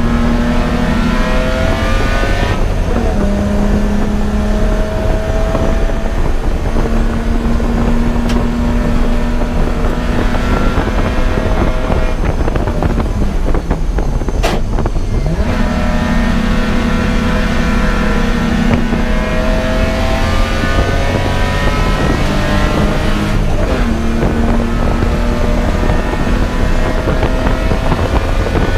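Race car engine at full throttle on a road course, its pitch climbing repeatedly through the gears, dropping sharply about halfway through for braking before climbing again. A constant low rumble runs underneath.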